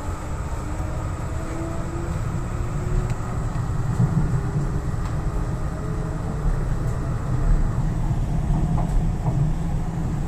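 MTR East Rail Line R-train electric multiple unit running on the line: a steady rumble of wheels on rail, with a faint motor whine that rises in pitch over the first few seconds as the train picks up speed.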